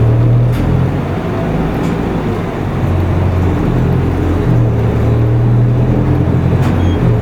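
Isuzu Erga Mio city bus running, heard from inside the cabin: a steady diesel engine note over road noise. The engine tone steps up and down in pitch a few times as the bus drives on.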